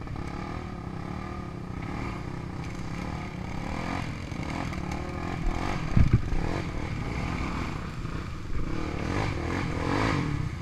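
ATV and dirt bike engines running, revving up at times, with a sharp knock about six seconds in.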